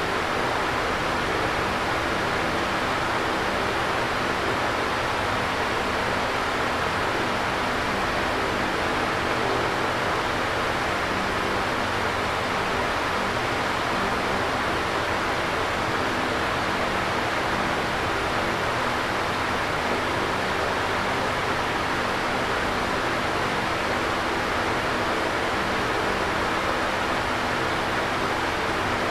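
Electric fan running steadily: an even rush of air with a faint low hum beneath it.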